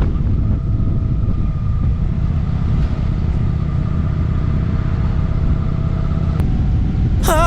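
Steady low rumble of wind and road noise while travelling, with a faint steady whine running through it. Music starts right at the end.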